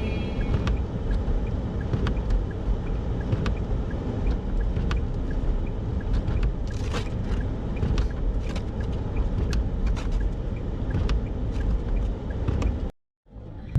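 Car driving through snow: a steady low rumble of engine, tyres and wind, with scattered light ticks, cut off suddenly near the end.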